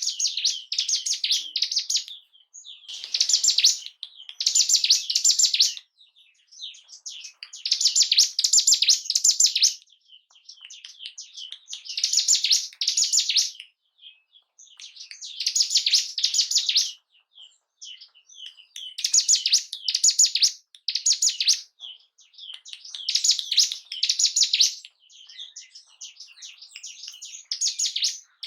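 Ciblek gunung, a mountain prinia, singing in rapid, high chattering phrases of one to two seconds, repeated every few seconds with short pauses between.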